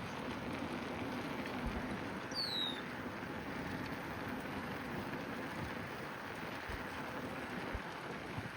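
Steady rushing noise of wind and tyres rolling on a moving bicycle, with one short falling chirp about two and a half seconds in.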